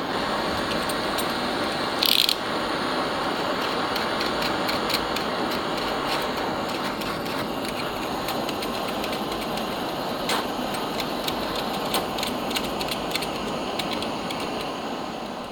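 Steady abrasive noise of a power tool working on metal, with scattered small clicks and a brief sharper burst about two seconds in.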